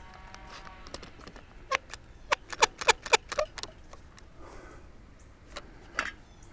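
A quick run of about ten sharp metallic clinks and clanks, then a single one a few seconds later: metal hardware on a bat house's telescopic pole being handled while a stop is fitted and bolts are worked loose.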